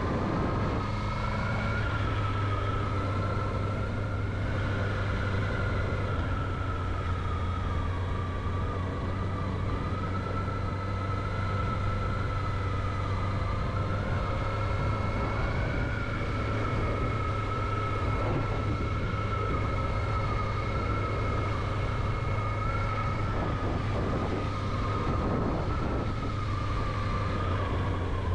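Honda CB650R's inline-four engine running at steady revs while riding, a constant low drone with a high whine held nearly level throughout.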